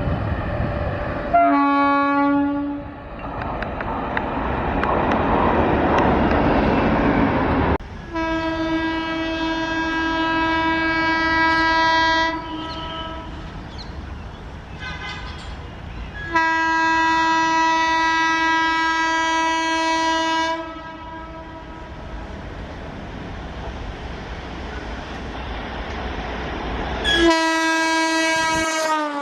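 Indian Railways locomotive horn: a short blast, two long blasts of about four seconds each with a brief toot between them, and a last short blast whose pitch drops as it ends. Under the horn runs the steady rumble of a moving train, loudest a few seconds in.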